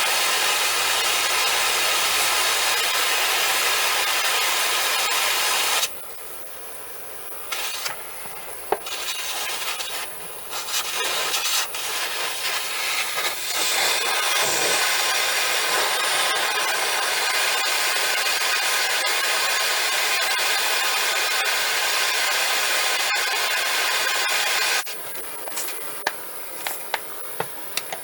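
Steady abrasive scrubbing on the old monkey wrench's metal, most likely rust being sanded or brushed off. It stops about six seconds in, comes back in short spurts, then runs steadily again until a few seconds before the end, when a few light clicks follow.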